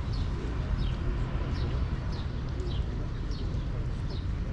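A small bird repeats a short, high, falling chirp about every two-thirds of a second over a steady low rumble of wind on the microphone.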